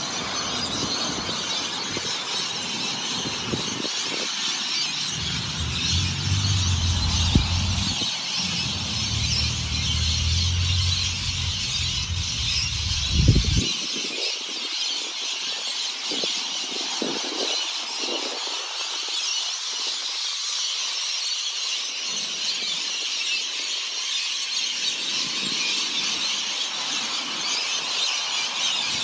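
Dense chorus of many birds chirping and singing at once, a continuous high-pitched chatter. A low steady hum runs underneath for several seconds in the first half and stops suddenly.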